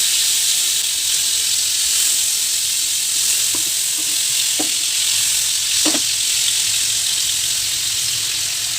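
Marinated chicken pieces frying in oil and butter in a pan on a low flame, giving a steady sizzle.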